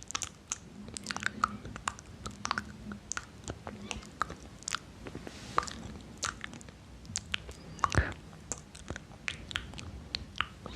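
Close-miked ASMR mouth sounds: a dense, irregular run of wet clicks and smacks from the lips and tongue.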